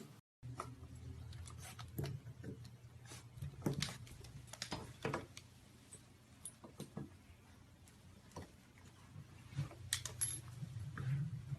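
Scattered light clicks and small metallic jingles over a steady low hum.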